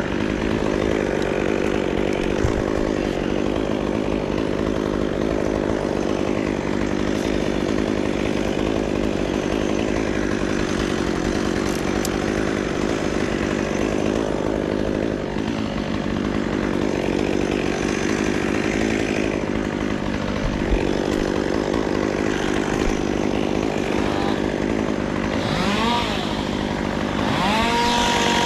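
Chainsaw engine running at a steady pitch, revving up with a rising whine near the end.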